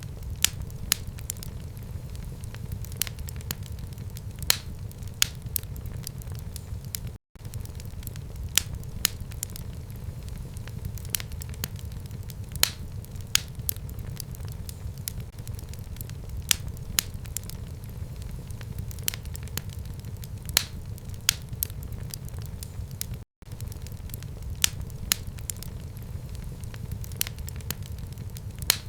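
Wood fire burning in a home fireplace: a steady low rumble of flame with sharp crackles and pops at irregular intervals, several a second. The sound cuts out for an instant twice.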